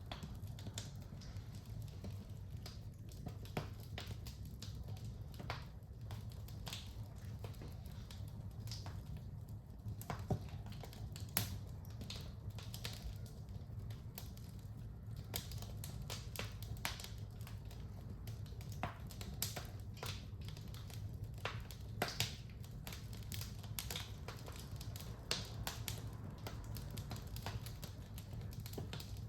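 Wood fire burning in a fireplace, crackling with irregular sharp pops over a low, steady rumble.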